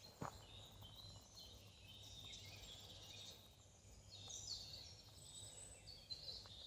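Faint woodland birdsong: many small birds chirping and trilling high up, over a faint low background hum, with a single click just after the start.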